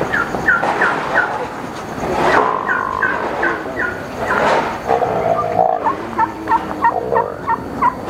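A bird calling in three runs of short, high, falling notes, about three a second.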